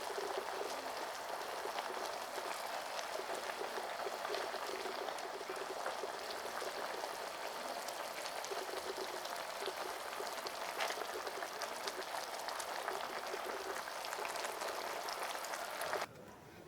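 Pot of instant noodles boiling hard, a dense steady bubbling and crackling that cuts off suddenly near the end.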